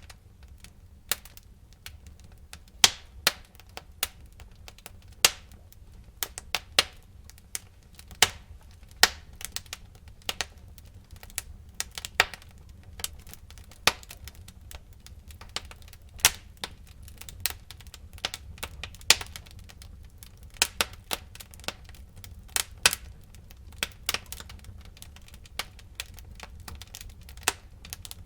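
Wood fire burning in a fireplace, crackling with irregular sharp pops and snaps a few times a second over a low steady rumble of the flames.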